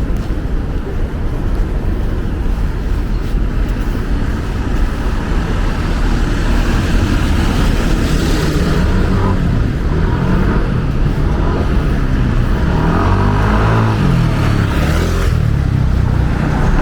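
Wind buffeting the microphone as a heavy, steady low rumble, over city street traffic noise. A vehicle's engine rises and falls partway through.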